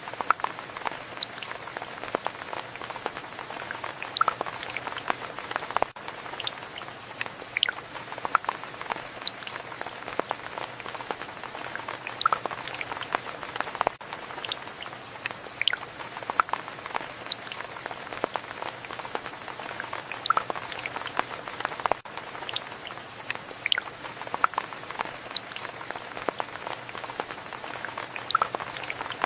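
Steady rain, an even hiss with many sharp, irregular drop ticks of individual raindrops striking surfaces.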